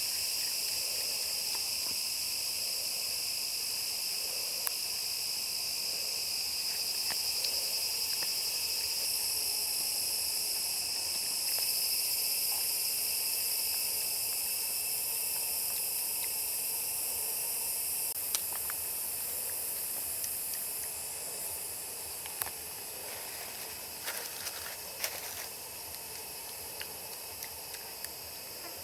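Food frying in hot oil: a steady sizzle with scattered sharp pops and crackles, more of them near the end. A steady insect chirring runs beneath it.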